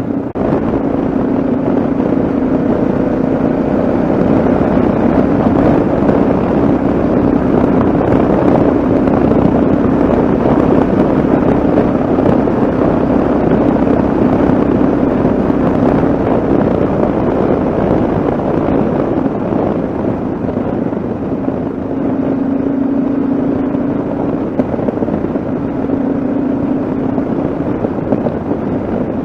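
Yamaha XT 660Z Ténéré's single-cylinder engine running at a steady cruising speed, under a constant rush of wind and road noise.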